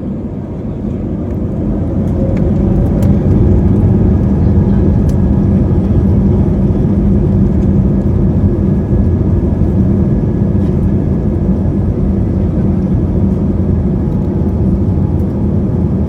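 Airbus A320neo engines heard from inside the cabin during take-off. The engine noise rises over the first few seconds, then runs steadily at high power with a deep rumble.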